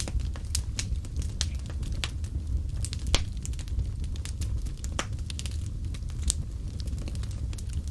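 Fireplace fire crackling and popping irregularly over a steady low rumble of flames, with a sharper pop about three seconds in and another about six seconds in.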